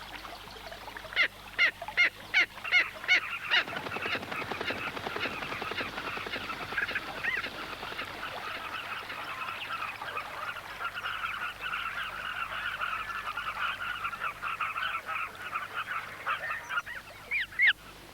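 Giant kingfisher giving a quick series of loud, harsh calls, then a dense chatter of many birds calling together from the carmine bee-eater colony, with more single sharp calls near the end.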